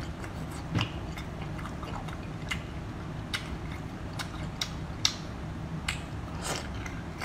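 Close-up eating of spicy sauced shellfish: chewing and biting, with scattered sharp clicks as shell pieces are pulled apart and bitten, over a steady low hum.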